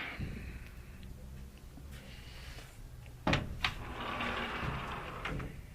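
A smoked glass door being worked by hand, a door that does not close all the way: two sharp knocks a little over three seconds in, then about a second and a half of rubbing and scraping that ends in another knock.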